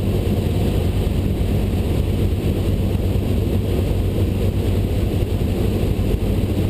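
Cessna 172 Skyhawk's engine running steadily at reduced power on approach, with airflow rushing past the cabin: a constant low drone with no change in pitch.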